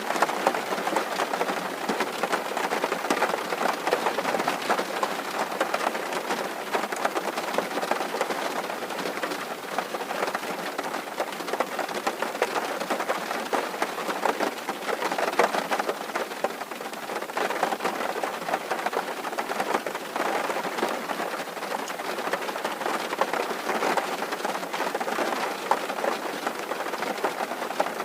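Steady rain drumming on a tin roof, a dense continuous patter of fine drop impacts.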